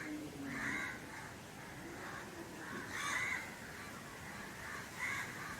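A bird calling three times, short calls about two seconds apart.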